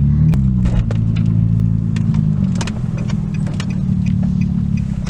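Car engine and road drone heard from inside the moving car's cabin, its pitch dipping slightly at the start and then holding steady, with a few light clicks and knocks from the cabin.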